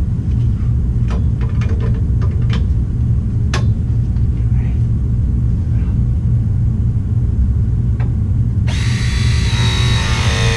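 A steady low rumble with a few light knocks, then, about nine seconds in, a power tool's motor starts up loud and keeps running, its pitch sagging as it works.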